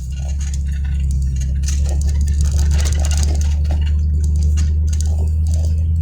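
A car's engine and road noise heard from inside the moving car, a steady low rumble that comes in at the start. Scattered light ticks sit over it.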